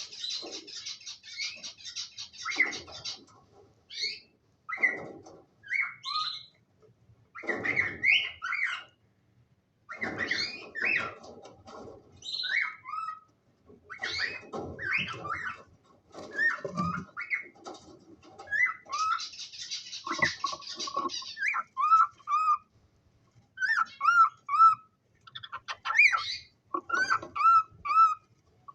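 Cockatiels chirping and calling in a busy series of short, irregular calls. There are harsh rasping screeches near the start and again about two-thirds of the way through, and runs of short, quick whistled notes near the end.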